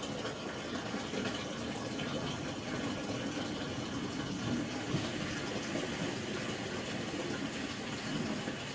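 Diesel exhaust fluid poured from a jug into a truck's DEF tank, a steady gurgling pour of liquid.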